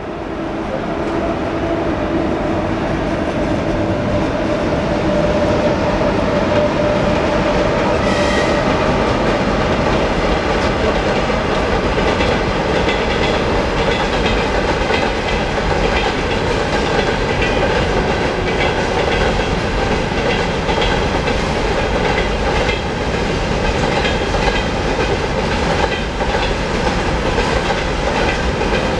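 Freight train behind a 2ES5K electric locomotive rolling past: a steady loud rumble of steel wheels on rails, with a hum in the first several seconds and, later, the rhythmic clickety-clack of wagon wheels over rail joints.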